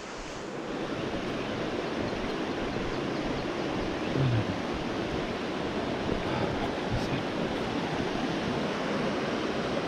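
River water rushing in a steady, even roar of noise.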